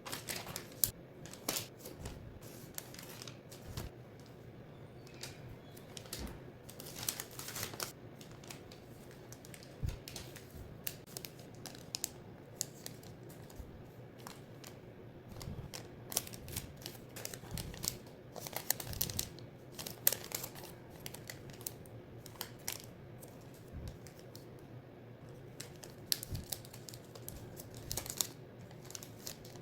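Origami paper being handled, folded and creased by hand: irregular crisp clicks and short rustles of paper.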